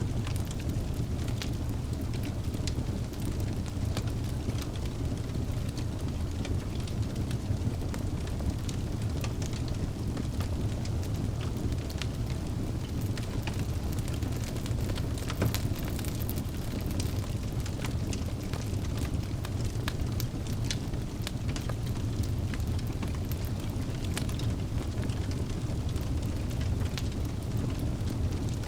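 Wood fire burning in a fireplace: a steady low roar of the flames with frequent small sharp crackles and pops scattered throughout.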